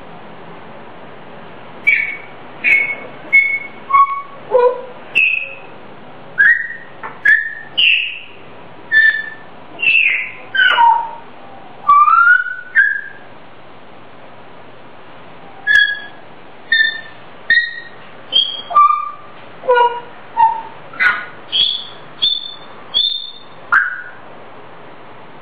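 Grey parrot whistling a made-up, tuneless song: a string of short, clear whistled notes, many sliding up or down in pitch, about one or two a second, with a pause of a couple of seconds midway.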